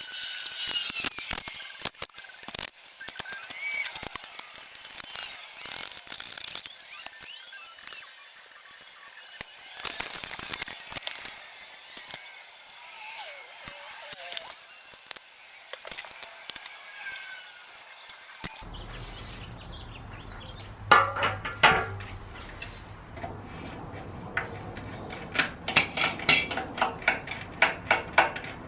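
Hand tools working on a small engine: a ratchet clicking in quick runs while the engine cover's bolts are taken out, with clinks and rattles of metal parts. A steady low hum comes in past the middle.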